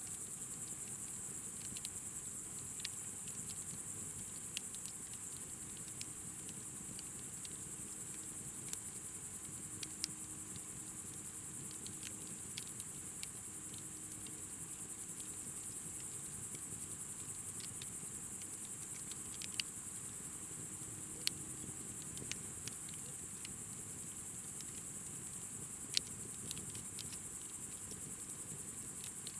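Night insects, crickets, chirring steadily and high, with occasional sharp pops and crackles from a burning bonfire.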